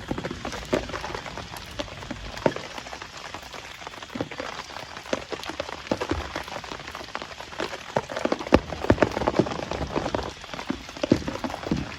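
Heavy rain falling, with large drops striking close by in an irregular patter that gets denser and louder about two-thirds of the way in.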